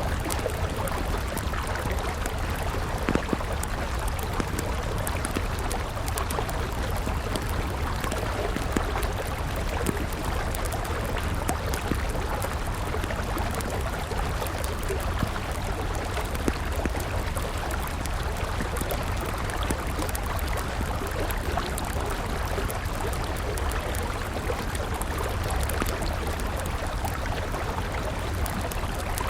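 River water flowing steadily, with a wood campfire crackling and a few sharp pops over it.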